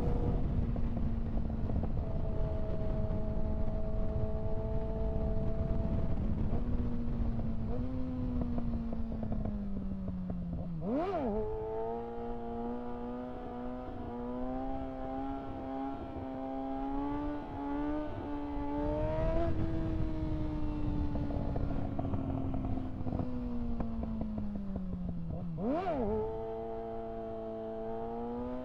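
2025 Kawasaki ZX-6R's 636 cc inline-four running at steady cruising revs over wind rumble. Its note sinks as the bike slows, then after a quick gear change about eleven seconds in the revs jump up; the same happens again near the end.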